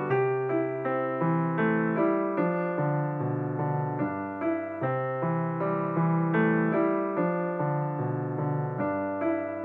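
Background piano music, notes struck in a steady flowing pattern over held low notes.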